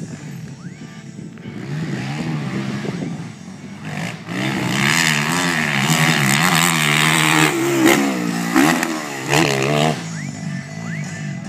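Motocross dirt bike engines running and revving up and down. One bike is much louder from about four seconds in until about ten seconds in, then it fades.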